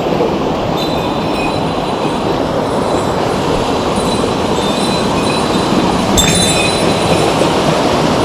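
Mountain stream water rushing over rocks, a steady loud noise.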